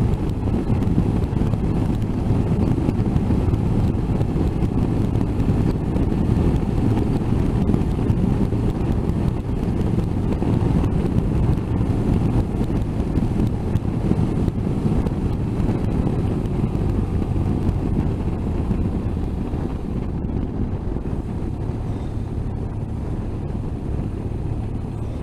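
Motorcycle on the move at road speed: a steady engine hum under a heavy rush of wind on the microphone. It eases off a little near the end.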